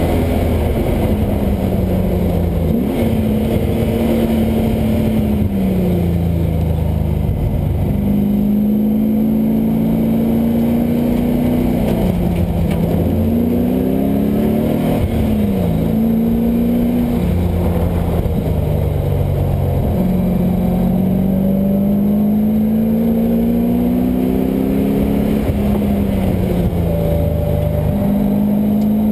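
LS1 V8 engine of a swapped Mazda Miata driven hard on track. The engine note climbs steadily under acceleration and drops at each gearchange, several times over. About halfway through there are quick rev blips as it brakes and downshifts.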